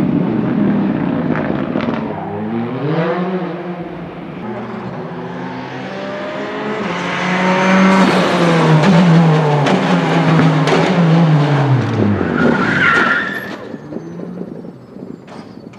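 Rally car engine revving up and down through gear changes as it approaches, loudest in the middle, then its note drops as it brakes. A brief tyre squeal follows about thirteen seconds in, and the sound fades away.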